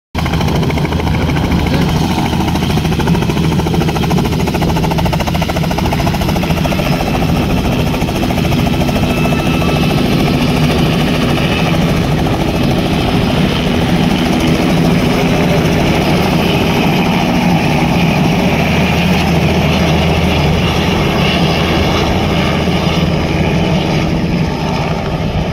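Helicopter running steadily close by: engine and rotor with a fast, even pulsing beat.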